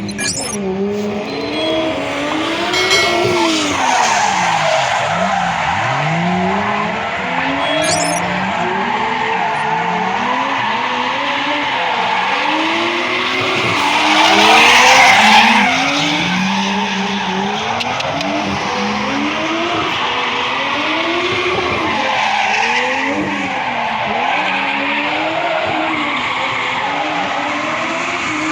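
Drift cars' engines revving up and down repeatedly while their tyres skid and squeal; the tyre noise swells loudest about halfway through.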